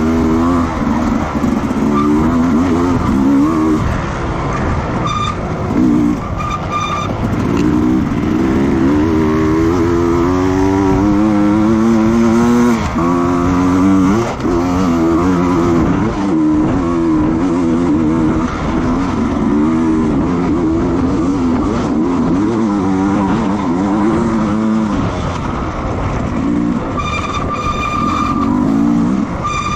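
Racing motorcycle engines revving hard, their pitch climbing and dropping again and again as the bikes accelerate and shift through the gears.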